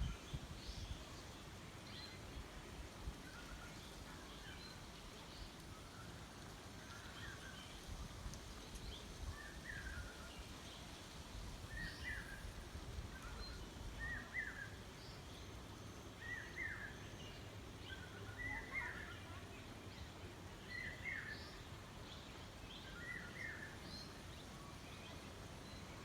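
Birds calling outdoors: a short chirping call repeated about every two seconds, starting a few seconds in, with fainter higher chirps scattered around it over a low background rumble.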